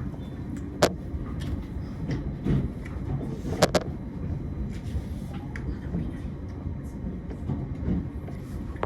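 Train running: a steady low rumble with a few sharp clicks, the loudest about one second and nearly four seconds in.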